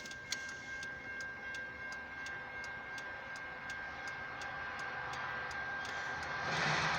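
Railroad crossing warning signal ticking steadily about twice a second over a steady high tone, as a Metra train approaches; the rumble of the oncoming train rises in about six and a half seconds in.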